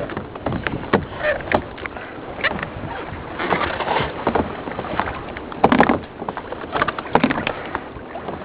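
Sea water splashing and slapping against a kayak, with irregular knocks and splashes, the loudest burst just before the six-second mark.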